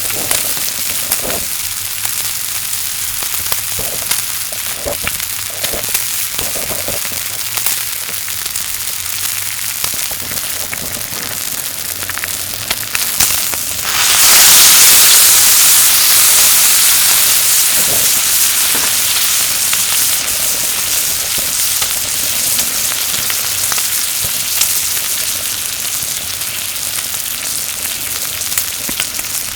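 Meat sizzling on a hot griddle over a kerosene heater, with scattered pops and crackles. About halfway through the sizzling jumps suddenly much louder, then slowly dies back down.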